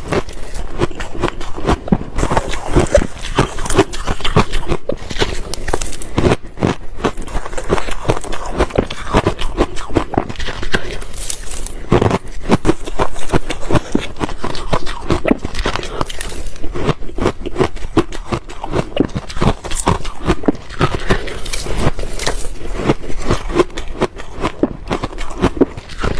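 Ice being crunched and chewed between the teeth close to the microphone: a dense, unbroken run of sharp cracks and crunches.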